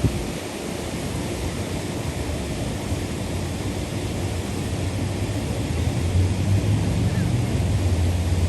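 Waterfall rushing, a steady loud roar of falling water. A low rumble builds in underneath from about five seconds in.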